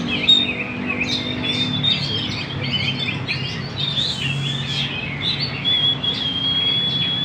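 A murai songbird singing without pause: rapid, varied chirps and whistled phrases, ending in one long held whistle. A low steady hum runs underneath.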